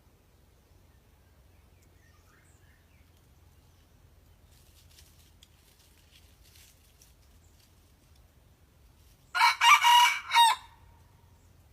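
A red junglefowl cock crows once, about three-quarters of the way in: a short crow of about four linked notes lasting just over a second.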